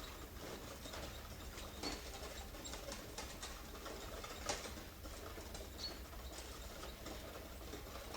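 Horse-drawn stagecoach with a four-horse team on the move: irregular light clicks and knocks from the hooves, harness and carriage over a steady low rumble. Two brief high squeaks and one sharper knock about halfway through.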